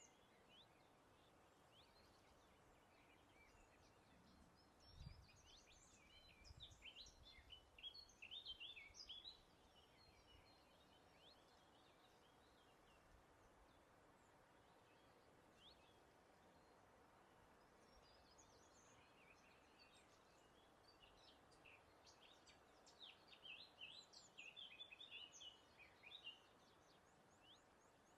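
Faint birdsong: two bouts of quick, high chirping notes, the first a few seconds in and the second past the middle, over a soft hiss of breeze. A couple of soft low thumps come during the first bout.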